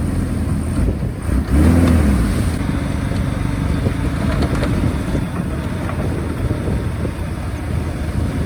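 Komatsu D31A bulldozer's diesel engine running, rising briefly in pitch and loudness about a second and a half in, then running steadily.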